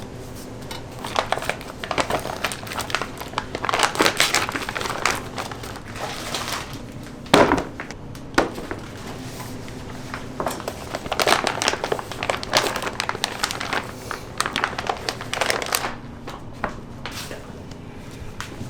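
Crinkling and rustling of wrapping being handled, in irregular bursts, with a few sharp knocks, the loudest about seven seconds in.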